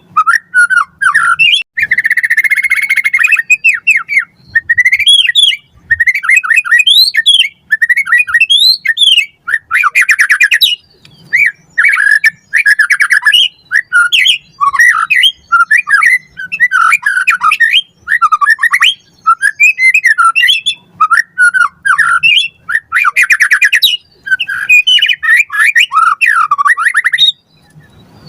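White-rumped shama (murai batu) singing in full voice: a continuous run of quick, varied whistled and warbled phrases, broken by dense rattling trills about two seconds in, around ten seconds and near the end.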